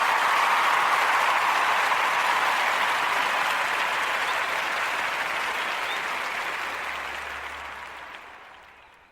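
Canned applause sound effect: a crowd clapping steadily, then fading out over the last couple of seconds.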